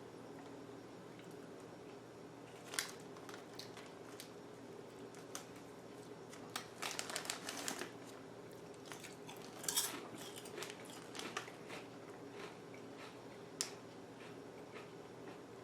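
Potato crisps being bitten and crunched, with crinkling of the crisp packet. There are a few single sharp crunches and a run of rapid crunching in the middle, over a steady low hum.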